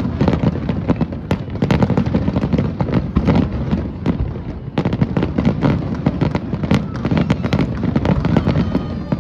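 Fireworks display: a dense, rapid barrage of aerial shell bursts and crackling, many bangs a second over a continuous low rumble.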